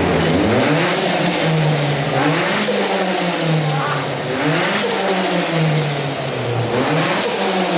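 Turbocharged Ford Focus 2.0 Zetec engine revving up and dropping back four times, about two seconds apart. Each rev carries a turbo whistle that climbs as the turbo spools and falls away as the throttle closes.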